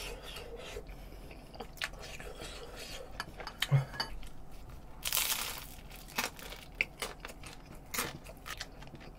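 Close-up chewing of a bite of spicy sauced chicken on ciabatta bread: scattered crunches and wet mouth clicks, with a breathy hiss about five seconds in.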